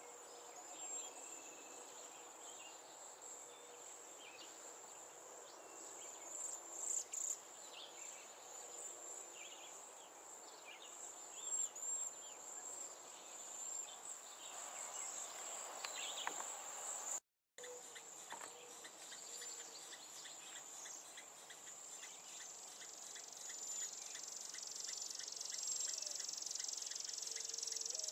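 Outdoor ambience of insects trilling steadily at a high pitch, with scattered short bird chirps over it. The sound cuts out completely for a moment a little past halfway, and the high trill grows louder near the end.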